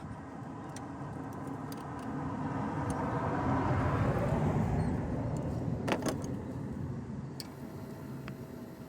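A motor vehicle passing by, its noise swelling to a peak about four seconds in and then fading away. A sharp click or rattle cuts in just after the peak.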